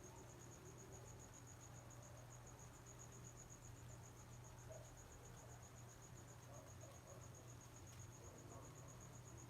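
Near silence: a faint steady low hum and a faint, high, rapidly pulsing trill that runs evenly throughout.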